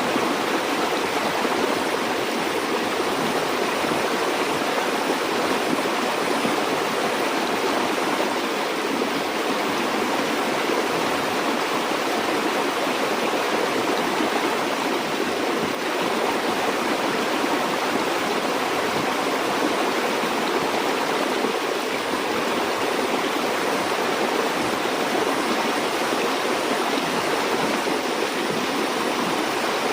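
A river or stream flowing steadily, a constant rushing of water with no breaks or changes.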